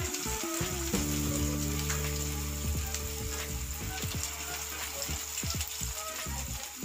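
Batter-coated chicken pieces sizzling as they deep-fry in hot mustard oil in a kadai, with more pieces being dropped into the oil by hand.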